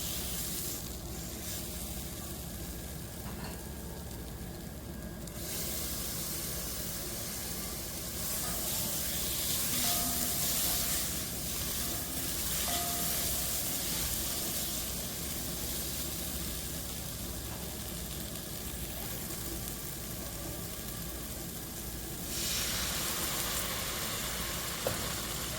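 Food frying in hot oil in a pan, a sizzling hiss that swells about five seconds in and again near the end, over a steady low hum.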